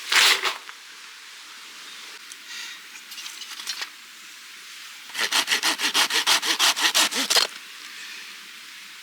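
Hand saw cutting firewood: a quick run of about a dozen even back-and-forth strokes lasting a couple of seconds, after a short loud rasp right at the start.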